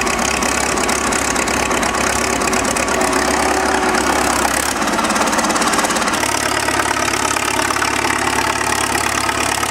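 Heavy engine running steadily, its note changing abruptly about five seconds in and again about six seconds in.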